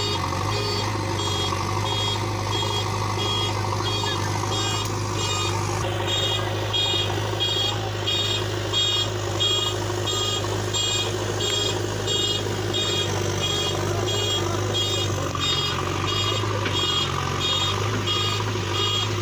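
Backhoe loader's reversing alarm beeping steadily, about two beeps a second, over its diesel engine running.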